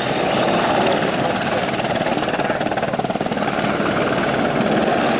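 Helicopter flying close by, its rotor and engine noise loud and steady.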